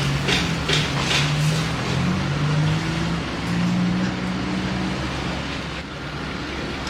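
Engine running with a steady low hum that rises slightly in pitch midway, with a rhythmic clatter of about three strikes a second in the first second and a half.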